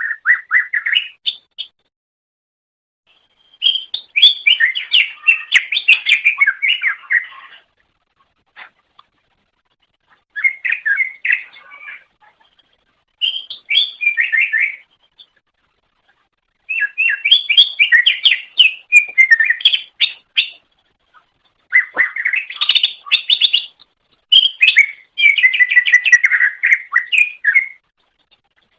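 Greater green leafbird (cucak ijo) singing in about seven bouts of rapid, varied chattering song, each a few seconds long, with short pauses between.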